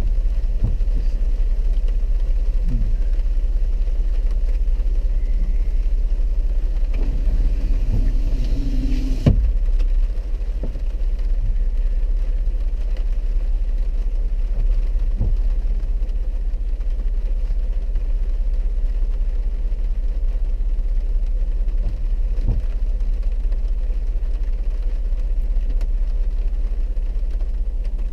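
Four-wheel-drive vehicle's engine running with a steady low rumble. A single thump comes about nine seconds in, and a faint hiss drops away right after it.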